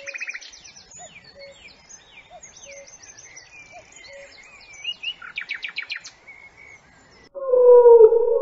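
Birdsong presented as cuckoo song: high chirps, whistles and rapid buzzy trills, with faint low call notes repeating about once a second beneath them. Near the end a louder, steady wailing tone cuts in.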